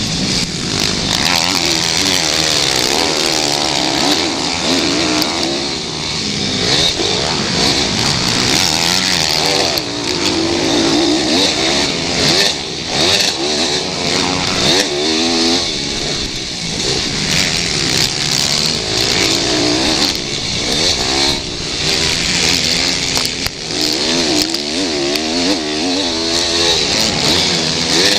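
Pit bikes racing, their small single-cylinder engines revving, the pitch rising and falling over and over as they accelerate and back off.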